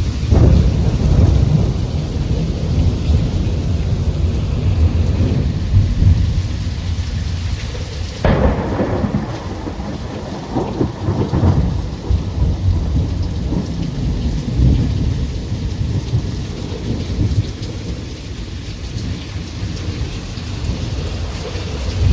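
Thunderstorm: steady rain with deep rolling thunder. About a third of the way in, a sharper, closer thunderclap breaks out and rumbles on for several seconds.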